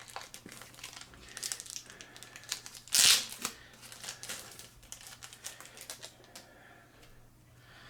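Plastic packaging crinkling and rustling as it is handled, in quick irregular crackles, with one louder crinkle about three seconds in. It grows quieter near the end.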